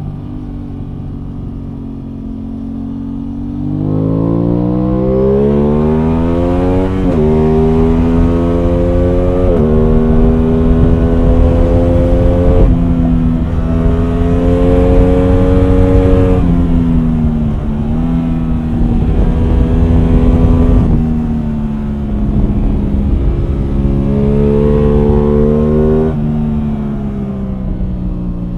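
Aprilia Tuono 660 Factory's parallel-twin engine pulling hard from about four seconds in and shifting up several times, each shift a sudden drop in pitch. It then eases off with falling revs, and pulls again briefly before another upshift near the end.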